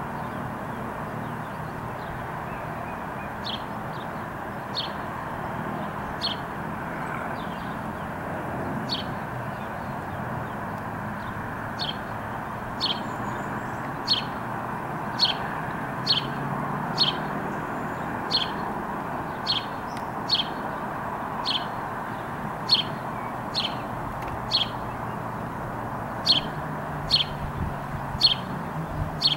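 A small bird calling: one short, high, downward chirp repeated over and over, about once a second and more regular in the second half. Under it runs a steady background hum.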